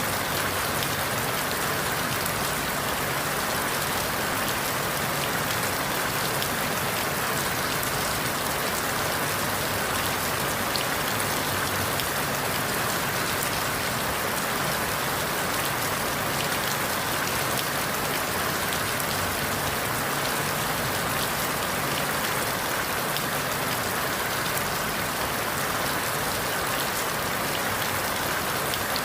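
Steady rain falling on forest leaves, an even hiss with many fine drop taps and no pause or change.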